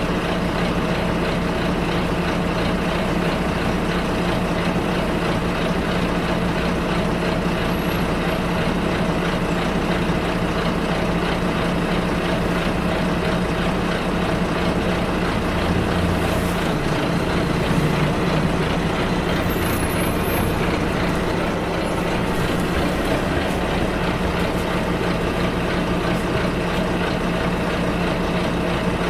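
Bus engine and road noise heard from inside a moving bus, steady throughout, with a brief change in the low engine hum about two-thirds of the way through.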